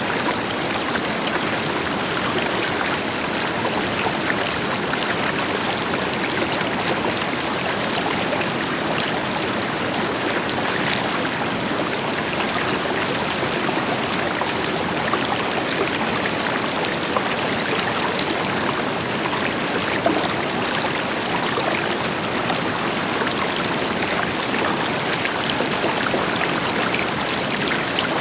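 River water flowing steadily over rocks, an even rushing with small splashes and trickles, with the deeper rush of a waterfall beneath it.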